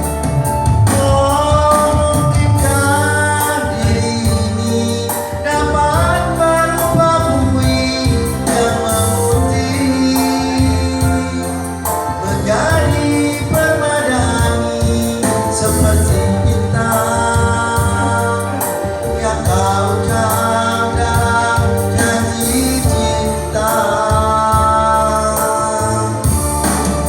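A voice singing a song over instrumental backing music.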